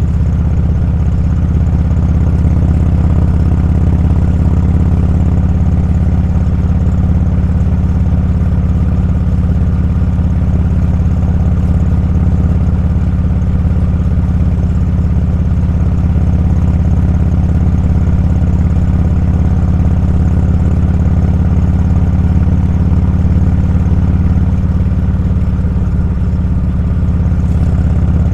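Motorcycle running at a steady speed while riding: a loud, even low engine drone with road and wind rumble, holding the same pitch throughout.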